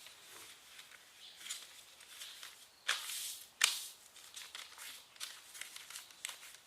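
Paper rustling and crinkling as a sheet is folded and creased, with a louder crackle about three seconds in and a sharp snap just after.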